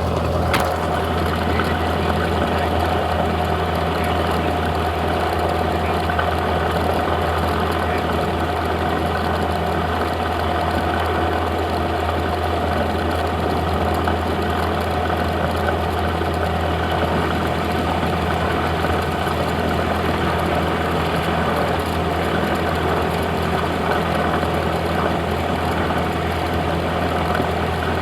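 Cessna 172's piston engine and propeller running at a steady speed, a constant drone, with one short click about half a second in.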